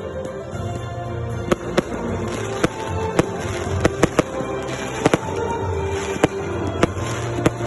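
Consumer fireworks battery (Эсминец FP-B331 cake) firing: sharp bangs at irregular intervals, about one or two a second, over music.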